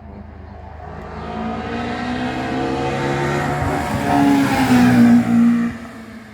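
A 1994 Formula 3 single-seater racing car's engine accelerating hard past, revving up through the gears. It grows louder, peaks about four to five and a half seconds in, then fades quickly.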